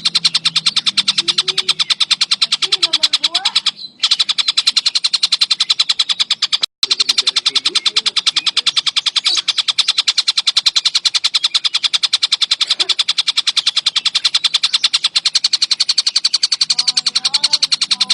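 Tengkek buto kingfisher calling in a fast, unbroken chatter of sharp, high notes, about ten a second, with two brief cut-outs along the way.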